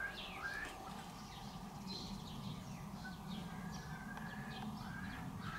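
Birds chirping repeatedly in short calls over a low steady hum of background noise.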